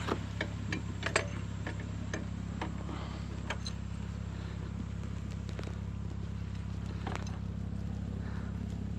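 A vehicle engine idling with a steady low hum, with scattered sharp clicks and ticks in the first few seconds and once more near the end.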